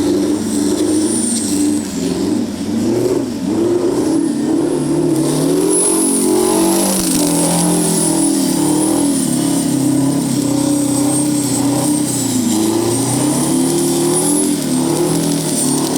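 Detroit Diesel 16V92 two-stroke V16 with twin superchargers and four turbos, running hard at high revs throughout a burnout. The engine note rises and falls continuously, with a thin high whine wavering over it.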